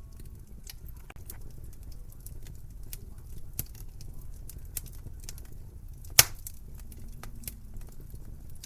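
Wood fire in a fireplace crackling: scattered small pops over a low steady rumble, with one sharp, much louder pop about six seconds in.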